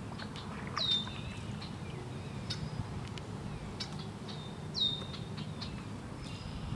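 Wild birds calling: the same call twice, about four seconds apart, each a whistle that slides down and then holds level, with short chips in between.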